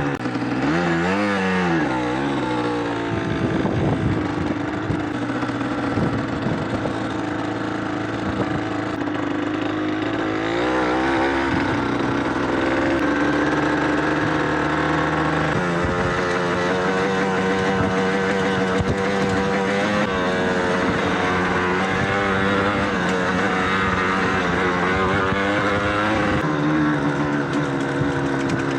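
Yamaha DT125's two-stroke single-cylinder engine ridden off-road, revving up and down in the first few seconds, then pulling at fairly steady revs with the pitch stepping up or down every few seconds as throttle and gears change.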